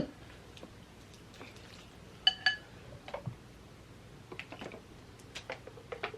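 Quiet room with scattered small clicks of eating utensils, and about two seconds in a quick double clink of a utensil against a bowl that rings briefly.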